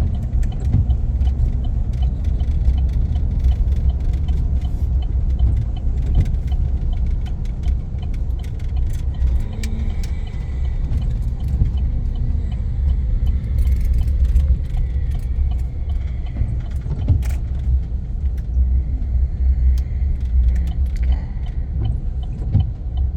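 Low steady rumble of a pickup truck, heard from inside the cab, with light irregular rattling clicks throughout.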